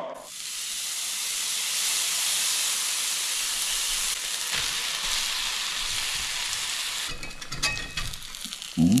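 Shredded cheese sizzling in a hot cast iron skillet, a steady frying hiss that starts suddenly as the cheese hits the pan. About seven seconds in the sizzle dies down, with a few light clicks of a metal spatula as a tortilla is laid on top.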